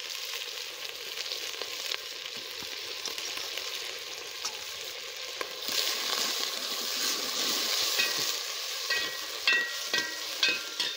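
Mutton pieces and onions sizzling in hot oil in a metal pot. About six seconds in, a metal ladle starts stirring: the sizzle grows louder and the ladle scrapes and clinks against the pot several times near the end.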